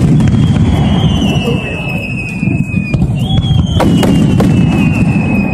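Aerial firework shells bursting overhead in a dense, continuous low rumble, with sharp bangs about four seconds in. Two long high whistles from whistling shells slowly fall in pitch, one after the other.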